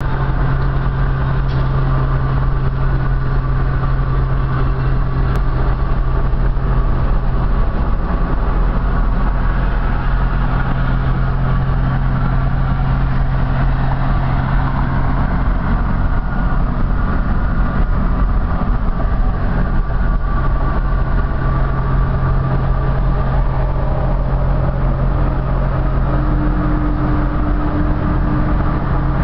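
1960 Studebaker Champ pickup cruising at highway speed: a steady engine drone with road and wind noise.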